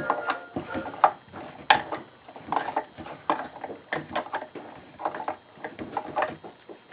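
Irregular clicks and knocks of metal diagonal cutters gripping and turning a worn screw out of an old wooden hand-crank coffee grinder, with two sharper knocks about one and two seconds in.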